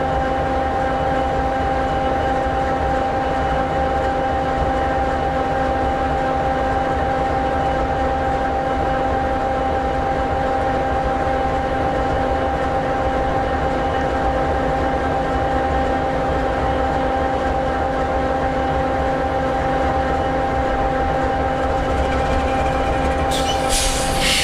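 EMD 16-710G3B sixteen-cylinder two-stroke diesel of an SD60E locomotive idling: a steady low rumble with a constant whine over it. About a second before the end a sudden hiss cuts in.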